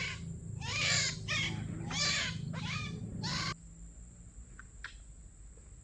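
White-breasted waterhen (ruak-ruak) calls, repeated about twice a second, cutting off abruptly about three and a half seconds in.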